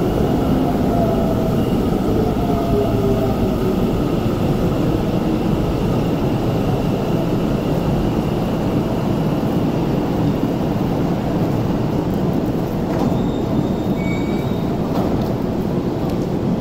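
Electric commuter train slowing into the station platform. Its motor whine falls in pitch over the first few seconds above a steady rumble of wheels on rail, and brief high squeals come near the end.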